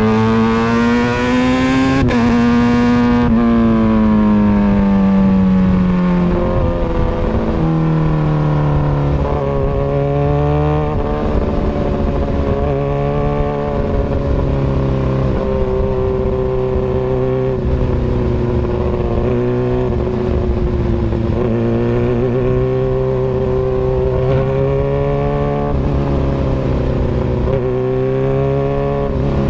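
Kawasaki Ninja ZX-6R 636 inline-four engine through an Austin Racing aftermarket exhaust. It revs up over the first two seconds, drops suddenly and winds down, then runs at a lower, wavering speed with small blips of throttle.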